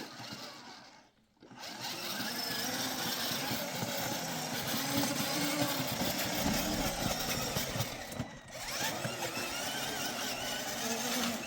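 A vehicle engine running as the vehicle drives, with a dense rushing noise over it. It starts about a second and a half in and dips briefly near the end.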